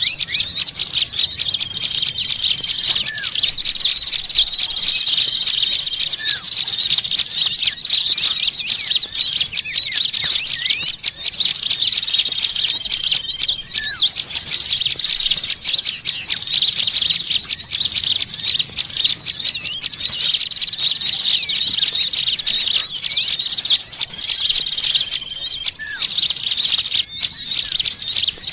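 Dense, continuous chorus of many small birds chirping and twittering all at once, a busy, agitated din of overlapping quick calls with a few short rising calls standing out. It is the kind of noisy small-bird commotion played as a bird-lure (pikat) call to draw in small birds.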